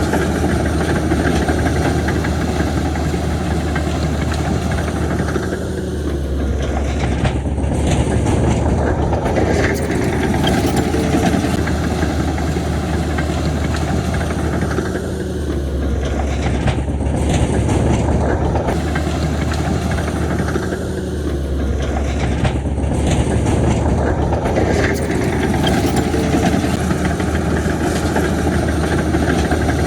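Heavy diesel construction machinery running continuously, the engine note swelling and easing three times as the machine works under changing load, with a brief high whine at each change.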